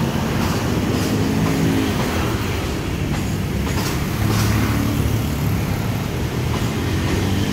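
Passenger train cars rolling past at close range with a steady low rumble, the wheels clacking over rail joints a few times.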